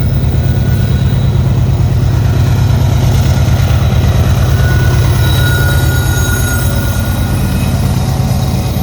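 Freight train passing close by: a loud, steady low rumble, with a thin, high wheel squeal that is strongest around the middle.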